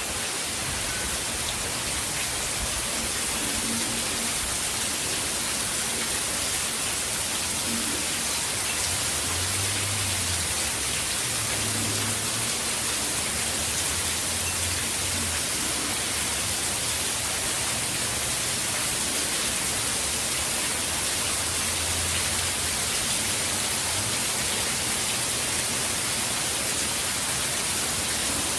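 Steady, even rain falling in a continuous downpour from a hurricane's rain bands.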